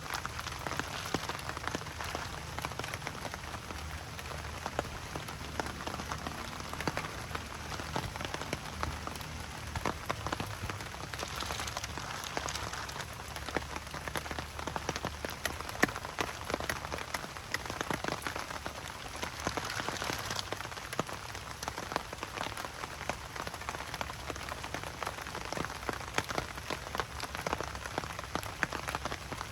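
Steady rain falling, with many individual drops tapping and pattering on a surface over a constant hiss, and a faint low rumble underneath.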